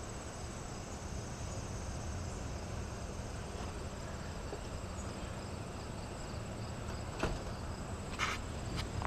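Insects chirping steadily in a high pulsing trill over a low steady rumble, with a couple of brief clicks near the end.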